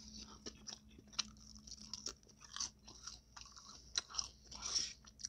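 Close-miked chewing and crunching of a taco, with irregular sharp mouth clicks and short crunches, the loudest about four seconds in.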